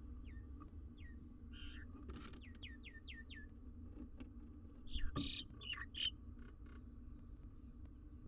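Bird calls at a barn owl nest box visited by a common myna: a quick run of about six short falling whistles, then a few short, harsh rasping calls about five seconds in.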